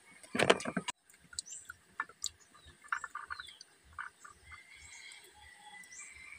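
A crunchy bite into a raw cucumber about half a second in, the loudest sound, followed by quieter clicks of chewing. A faint high chirping runs in the background near the end.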